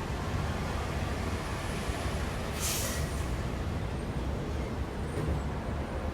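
Steady rumble of downtown street traffic, with a short hiss about two and a half seconds in.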